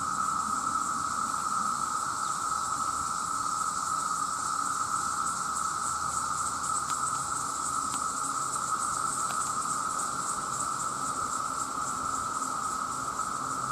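Dense chorus of calling male cicadas: an unbroken, steady drone heard at two pitches at once, one mid and one very high.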